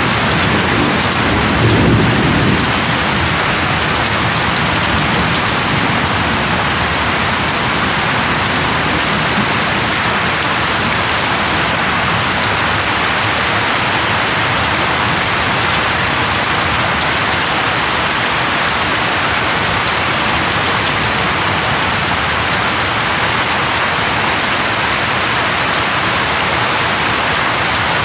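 Steady rain falling, with a brief low rumble of thunder about two seconds in.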